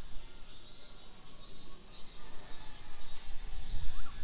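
Outdoor park ambience: a steady low rumble, likely wind on the microphone, with a very high insect chirping in short pulses about two to three times a second through the middle.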